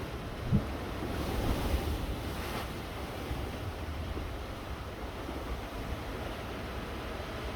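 Wind buffeting the microphone over a steady wash of surf, with one short thump about half a second in and a swell of hiss between one and three seconds in.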